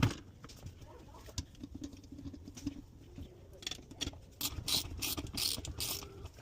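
Repair handling noises: a sharp knock right at the start, scattered clicks, then a quick run of rattling clicks about four to six seconds in, like parts and tools being handled during dishwasher work.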